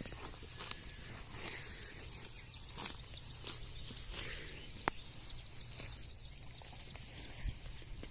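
Insects chirring steadily and high-pitched outdoors, with scattered small clicks and rustles and a low rumble underneath.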